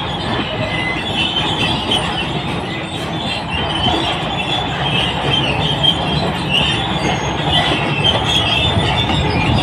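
Crawler bulldozer working, its diesel engine running with the steel tracks squealing and clanking.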